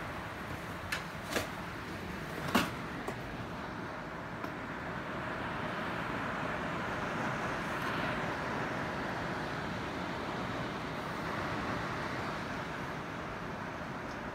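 Heavy rain pouring down in a steady dense hiss that grows a little louder about five seconds in. A few sharp clicks and knocks in the first few seconds.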